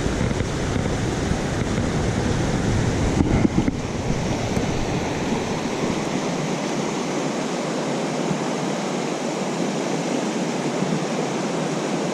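Rushing creek water: a steady, loud wash of noise. A low rumble under it stops about six seconds in.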